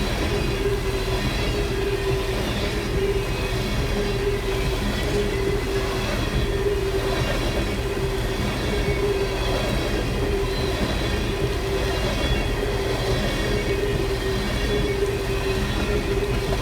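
Long CSX freight train of empty ethanol tank cars rolling past, a steady rumble of wheels on rail with a wavering squeal that keeps breaking off and returning.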